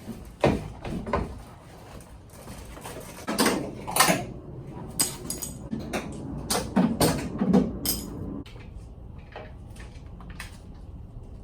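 A run of irregular metallic clanks and knocks, several of them ringing briefly, from things being handled around the truck bed and engine.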